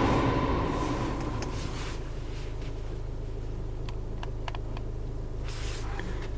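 Car climate-control blower fading down over the first couple of seconds. A steady low cabin hum remains, with several light clicks of dashboard controls being pressed and a short hiss near the end.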